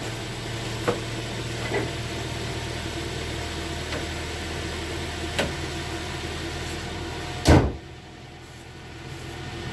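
Car engine idling steadily as it warms up just after starting, with a few light clicks. About seven and a half seconds in, a single loud slam, after which the engine sounds quieter.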